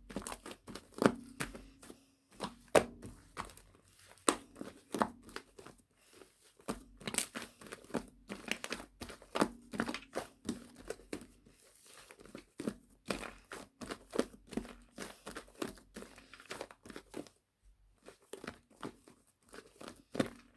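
Irregular crinkling and crackling handling noise, many small crackles in quick, uneven succession, with a faint low hum in places and a brief lull near the end.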